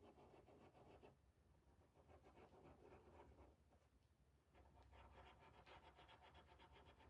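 Faint scratching of a stencil brush working paint onto a surface through a stencil, in three short bouts with brief pauses between them.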